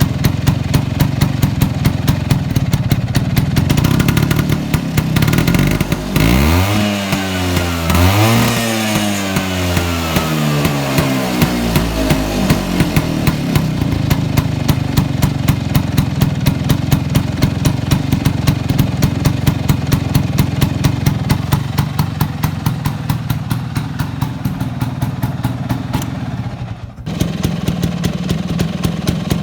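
Vespa PX150's single-cylinder two-stroke engine idling with a steady pulsing note, blipped twice about a third of the way in so the pitch rises and falls, then settling back to idle.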